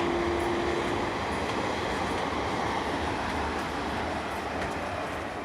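The tail of an electric locomotive's horn, a steady single note that cuts off about a second in. It gives way to the running noise of a passenger train's coaches rolling past, slowly fading.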